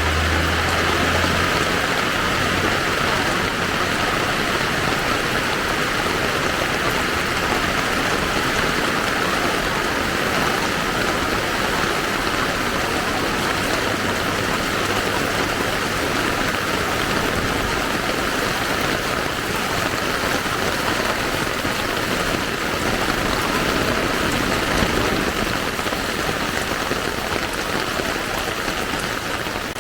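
Steady rain falling and pattering on surfaces, with a low engine hum that fades out in the first two seconds.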